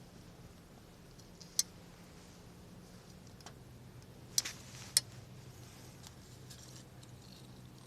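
Wood campfire burning with soft crackling and a few sharp pops: one about a second and a half in, then two close together around four and a half to five seconds in.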